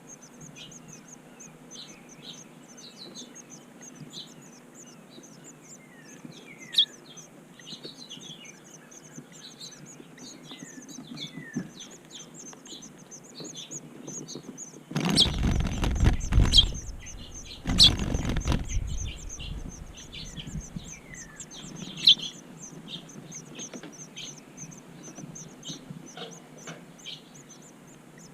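Small birds chirping and calling repeatedly, with short downward-sliding notes, over a fast high ticking. About halfway through come two loud rushing bursts, each a second or two long.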